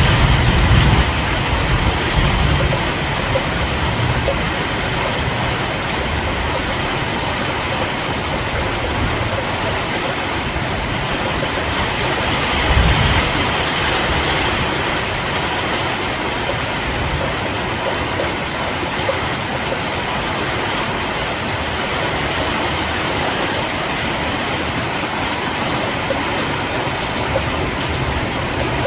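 Steady rain falling, an even hiss. A low rumble in the first few seconds and a brief low thump about 13 seconds in.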